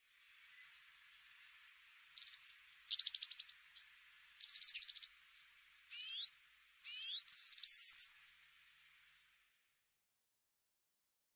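Small songbird singing a varied song of rapid trills, quick repeated notes and rising slurred whistles, which breaks off a couple of seconds before the end.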